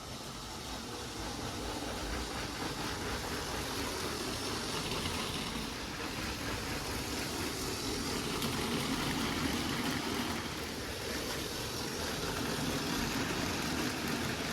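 Motorised LEGO train running along plastic track: a steady whirring rumble that swells louder as it passes, about halfway through and again near the end.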